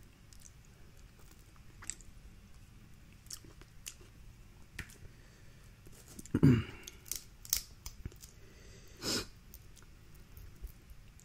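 Close-up eating sounds from a seafood boil: scattered clicks and crackles of shells being handled and chewed, with two louder bursts, one about six and a half seconds in and another about nine seconds in.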